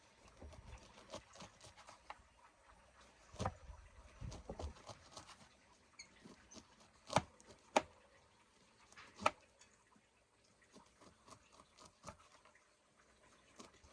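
Irregular light clicks and taps, with a few sharper knocks about three and a half, seven, eight and nine seconds in.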